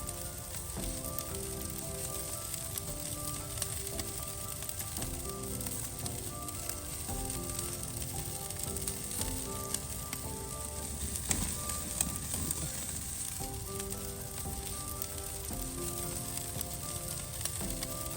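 Food frying in a pan, sizzling steadily, under soft melodic background music.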